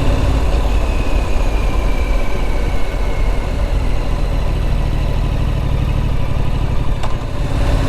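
Triumph Street Scrambler's 900 cc parallel-twin engine running steadily under way, with dense wind and road noise over it.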